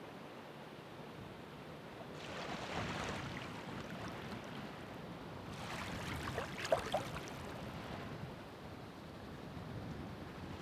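Ocean waves breaking and washing up the shore: one surge swells about two seconds in, and a stronger one comes a few seconds later, fizzing and crackling as it spreads.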